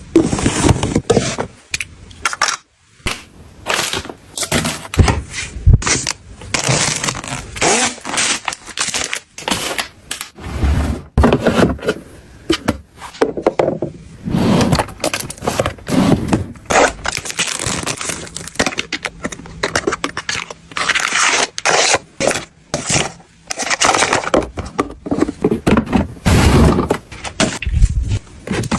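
A continuous run of irregular scrapes, knocks and clatters of objects being handled.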